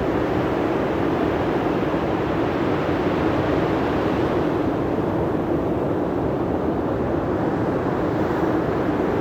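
Steady, unbroken rush of sea wind and surf.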